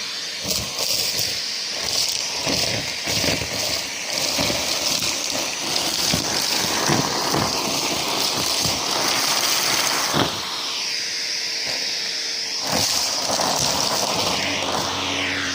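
Numatic James vacuum cleaner running with a steady airflow hiss while it sucks up dry mess, with frequent crackles and rattles of debris going up the hose. Near the end a steady low hum joins in.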